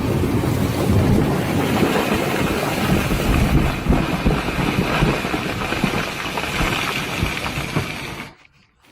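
Loud, steady roar of strong wind, with gusts buffeting the microphone in a rumbling low end. It cuts off abruptly a little after eight seconds in.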